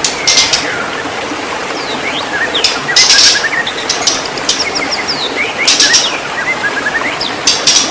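White-rumped shama singing: quick gliding whistled notes and chirps, broken by harsh raspy bursts about every two and a half seconds, over a steady hiss of running water.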